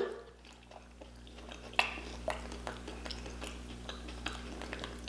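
Close-miked chewing of a mouthful of boiled purple potato: soft wet mouth sounds with sharp smacking clicks about twice a second, starting about a second and a half in.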